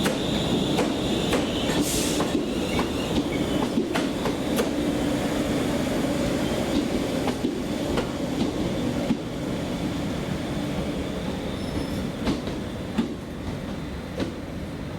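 Train moving through a station on rails: a steady rumble with irregular clacks as wheels cross rail joints, and a high wheel squeal in the first second or so. It grows gradually quieter toward the end.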